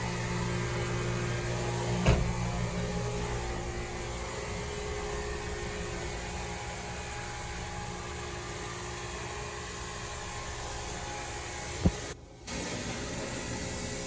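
Steady road and engine noise inside a car's cabin while driving, with a knock about two seconds in and a sharp click near the end.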